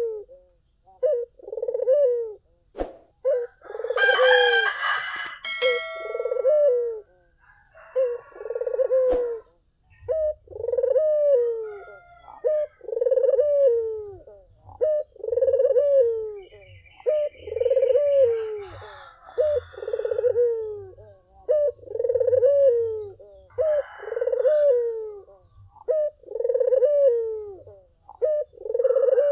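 Puter (Barbary dove) cooing over and over, short falling coos repeated about every second or so. A louder, harsh call breaks in about four seconds in, and a faint high chatter from another small bird comes in past the middle.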